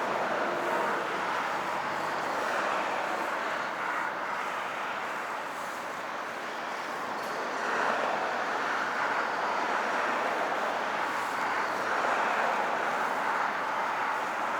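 Delivery motorcycle on the move: a steady rush of engine, road and wind noise that swells gently a few times.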